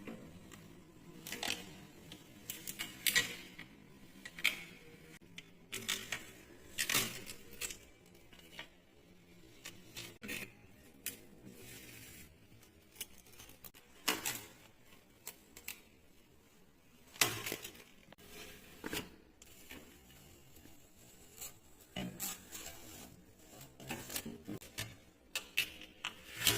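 Protective plastic film and packaging being pulled off a new refrigerator and crinkled, in irregular crackles with occasional light knocks.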